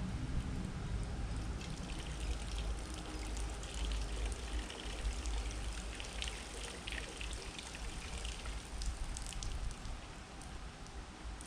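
Gravel-bike tyres rolling over a gravel path, a steady crunch with scattered crackles, under a low wind rumble on the microphone.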